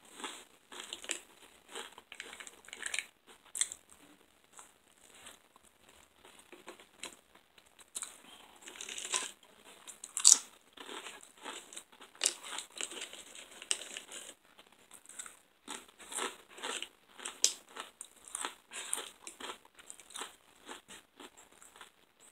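A person chewing crunchy food close to the microphone: irregular crunches and mouth sounds, with one sharper crunch about ten seconds in.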